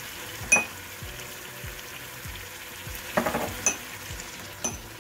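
Chicken and onions sizzling as they fry in a stainless steel pot, with ground spices being added. A few sharp, ringing clinks cut through the sizzle: the small spice bowls knocking against the pot, once early, then a short cluster about three seconds in and two more single clinks.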